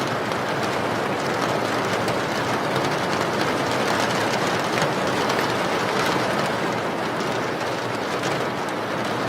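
Steady rain: an even, unbroken hiss with scattered faint drop ticks.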